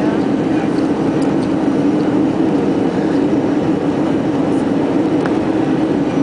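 Steady cabin noise inside an Airbus A320 airliner: the even roar of the engines and airflow with a constant low hum.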